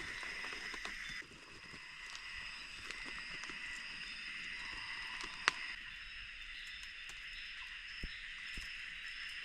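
Insects calling in steady, high, overlapping tones, with scattered small ticks and one sharp tap about five and a half seconds in.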